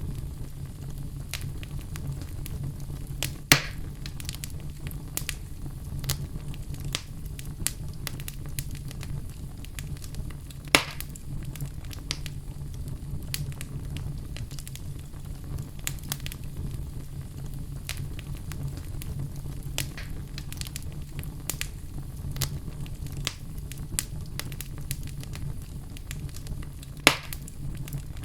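Wood fire burning in a fireplace: a steady low rumble of flames with frequent small crackles. Three louder pops stand out, a few seconds in, about eleven seconds in, and near the end.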